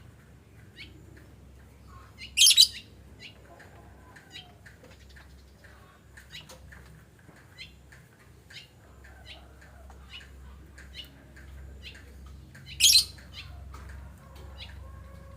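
Pet lovebirds making frequent short, high chirps, broken twice by a loud, shrill shriek: once about two and a half seconds in, and again near the end.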